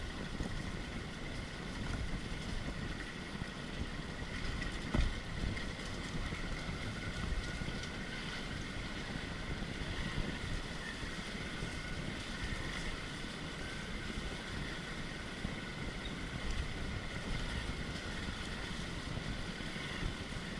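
Off-road motorcycle engine running during trail riding, a steady rumble with wind noise on the microphone. There is a single thump about five seconds in.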